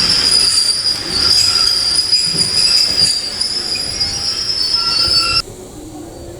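Passenger train's steel wheels squealing against the rails, a steady high-pitched screech over the running noise. This is flange squeal, typical of a train taking a curve. It cuts off abruptly about five seconds in.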